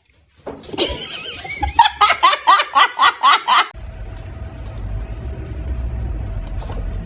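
A person laughing in a quick run of bursts, about four a second. Just under four seconds in, a steady low rumble with a faint constant hum takes over.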